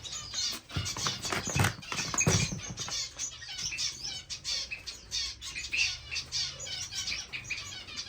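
Many small cage finches chirping and twittering rapidly together. A few dull handling knocks sound in the first couple of seconds.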